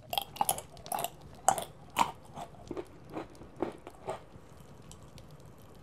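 Close-up mouth sounds of chewing a crispy snack laced with popping candy: irregular crunches and small crackling pops, dense at first and thinning out after about four seconds.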